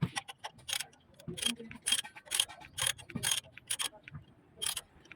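A string of sharp metallic clicks, unevenly spaced about half a second apart, from hand tools being worked on metal.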